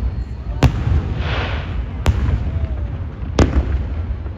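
Aerial fireworks exploding: three sharp bangs about a second and a half apart, the first followed by a crackling fizz, over a steady low rumble.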